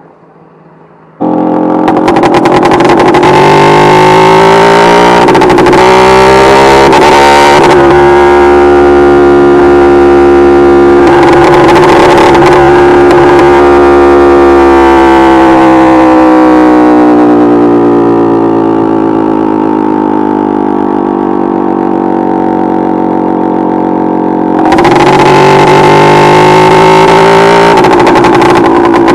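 Simson SR2 moped's tuned two-stroke engine running hard at high revs, loud and steady with small rises and falls in pitch; it eases off partway through and picks up again near the end.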